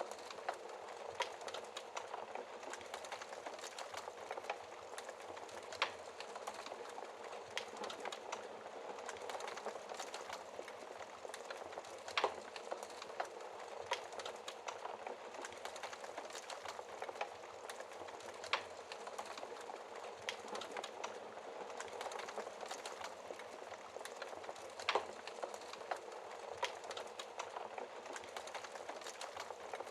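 Wood fire burning in a fireplace: a steady hiss with frequent small crackles and a sharp, louder pop every few seconds.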